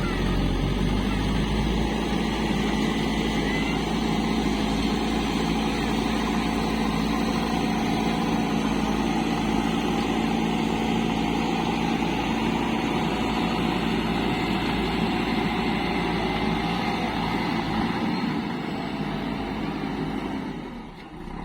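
Heavy diesel machinery engine running steadily, dipping briefly in level just before the end.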